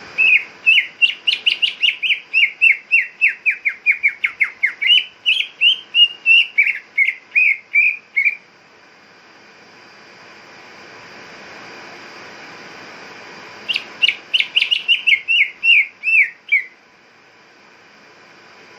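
Greater green leafbird (cucak ijo) singing: a fast run of sharp, downward-slurred whistled notes, about four a second, lasting about eight seconds, then after a pause a second shorter run of about three seconds, over a steady background hiss.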